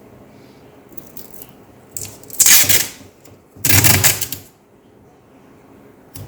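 Hands working on a laptop keyboard: a few light clicks, then two loud scratchy noises about a second apart, each lasting under a second, and one more short click near the end.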